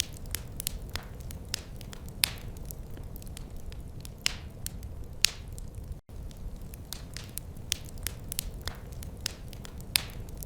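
Wood fire crackling in a fireplace: irregular sharp pops and snaps, a few louder than the rest, over a steady low rumble of the flames. The sound cuts out for an instant about six seconds in.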